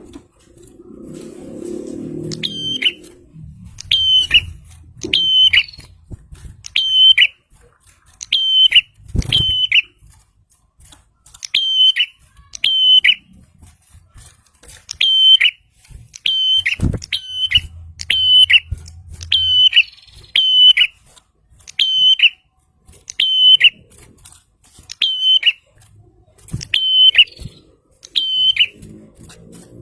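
Prinia (prenjak) calling: one sharp, high, hooked note repeated about once a second, with a few short pauses. A low rumble sits under the first few seconds, and there is a single thump about 17 seconds in.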